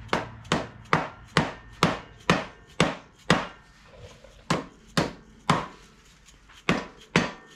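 A hammer striking a stuck part of a quad's shaft drive over and over, about two blows a second with two short pauses, to knock it loose.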